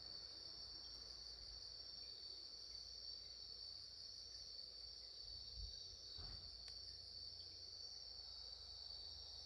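Night insects, cricket-like, calling in a steady unbroken high trill, with one faint click about two thirds of the way through.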